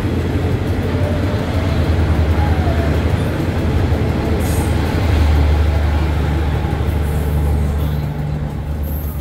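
Diesel passenger train rolling past a station platform and pulling away, a steady low rumble of wheels and engine that swells about five seconds in as the last car goes by.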